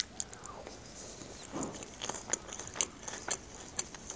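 Close-miked chewing of a mouthful of Caesar salad: a sharp bite at the start, then crisp lettuce crunching with scattered wet mouth clicks.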